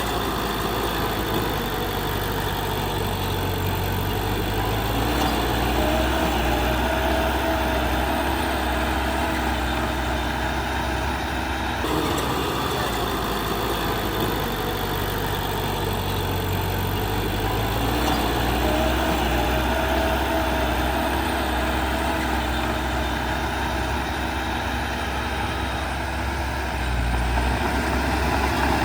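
Heavy diesel earthmoving machinery running steadily, its engine pitch rising twice as it works harder.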